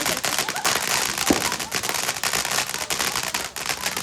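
Consumer fireworks going off: a rapid, irregular stream of sharp pops and crackles.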